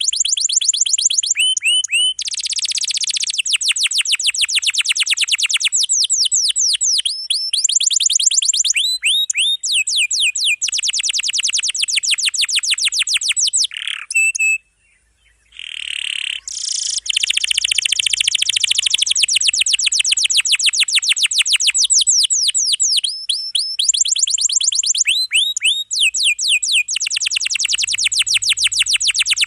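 Domestic canary singing in long, fast rolls: rapid trills of many quickly repeated falling notes, broken by a brief pause about halfway through.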